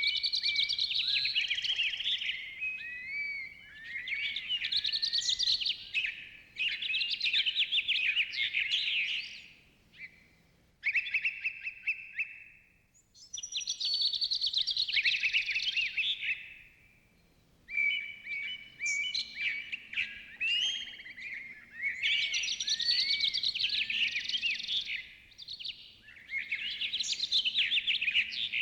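Songbirds chirping and warbling in quick, busy phrases of a second or a few seconds each, with short pauses between them.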